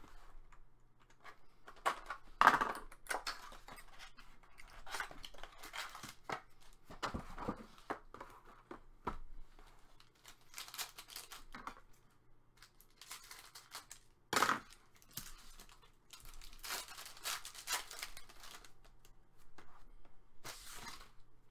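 Hockey card pack wrappers being torn open and crinkled, with the cards and packaging rustling in irregular bursts. The loudest tears come about two and a half seconds in and again near the middle.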